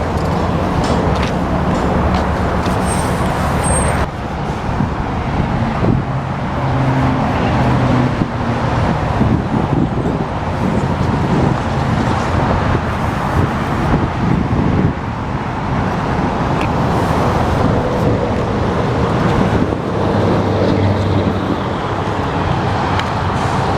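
Road vehicle noise: a car or truck's engine and tyres running steadily, with a low engine hum under a constant rush of road noise.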